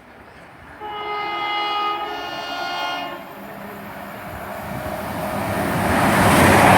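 A Chiltern Railways Class 168 diesel multiple unit, 168219, sounds its two-tone horn, two notes of about a second each. The noise of the train then builds steadily as it approaches the platform to pass through at speed.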